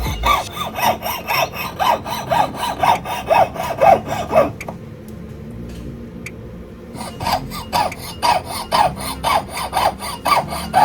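Hand tool worked back and forth on jewellery metal, as in filing or sawing at the bench, about two strokes a second. The strokes stop for a couple of seconds about halfway, then start again.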